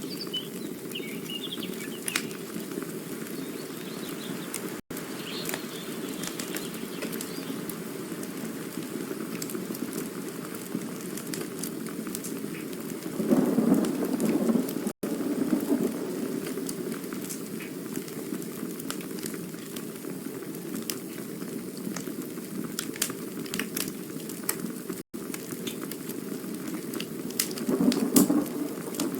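Campfire burning: a steady low rush of flame with frequent small crackles and pops, swelling louder twice, about halfway through and near the end. The sound drops out for an instant about every ten seconds.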